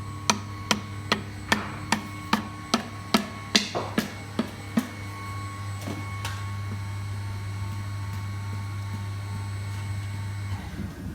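A quick run of light hammer taps, about two and a half a second for some five seconds, then a few scattered ones. Underneath is a steady low hum that cuts off near the end.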